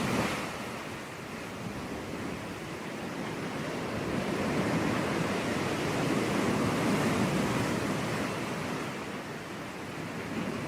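Sea waves breaking and washing on a beach, the surf swelling and ebbing in slow surges.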